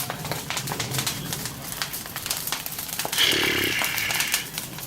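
Bonfire of dry, fallen Paraná pine (araucaria) twigs crackling with quick irregular pops. About three seconds in, a higher steady sound joins for about a second and is the loudest part.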